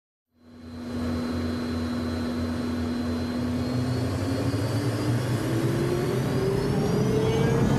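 Learjet jet engines spooling up for takeoff, heard from inside the cabin: a steady hum whose whine starts rising in pitch about halfway through, growing gradually louder.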